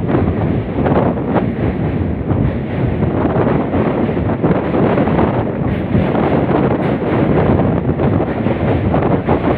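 Wind buffeting the microphone over the steady running noise of a passenger train.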